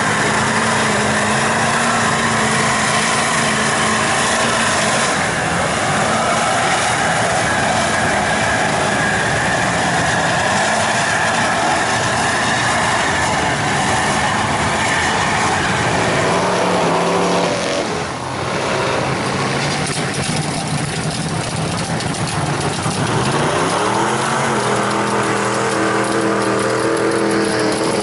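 Mud truck engine running loud and hard. It eases off briefly about two thirds of the way through, then revs up again with its pitch rising.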